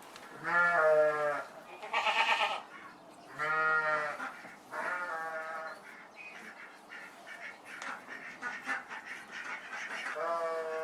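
Bleating of sheep or goats: about five wavering calls, four in the first six seconds and one more near the end, with quieter bleating and rustle between.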